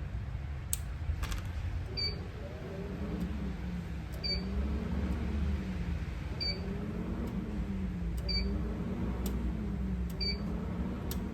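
ChocoVision Revolation 3210 chocolate tempering machine running again with its replaced power switch: a low motor hum that wavers up and down in pitch about every two seconds, with a short high click once each cycle, five times in all.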